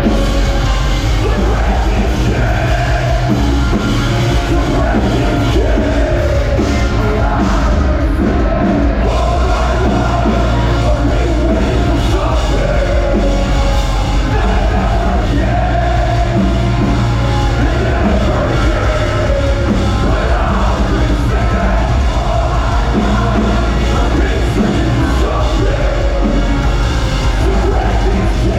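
A metalcore band playing live at full volume: heavy distorted guitars, bass and drums under a vocal line that is partly sung and partly yelled.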